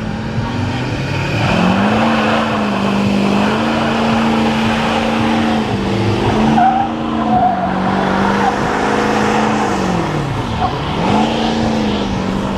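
A car engine revving hard and holding high revs, its pitch dipping and climbing back several times, with tyres squealing as in a burnout.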